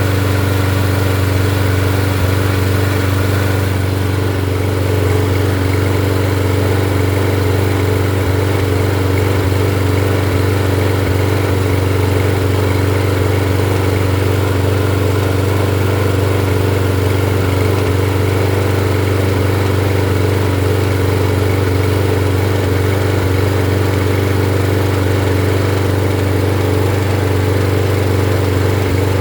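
Toro 163cc single-cylinder lawnmower engine running at a steady speed without surging, its carburetor and main jet freshly cleaned.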